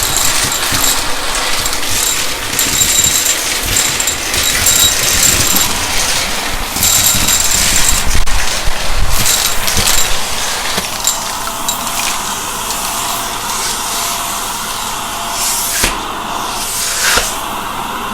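Shark vacuum cleaner running, with uneven crackling for roughly the first ten seconds as it picks up a mess. After that it runs on with a smoother, steadier hum, and two sharp knocks come near the end.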